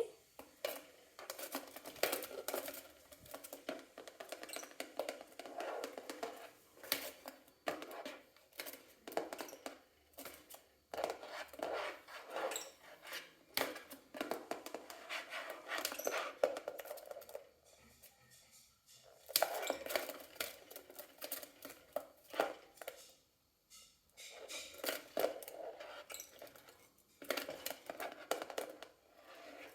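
Pet lovebird scuffling with a finger in play: quick clicks and taps of its beak and feet with rustling, in bouts broken by two brief lulls.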